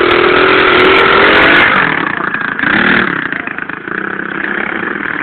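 Pit bike engine revving under throttle for a second and a half or so, then backing off. A short blip follows, and the engine settles into a lower, steadier running note.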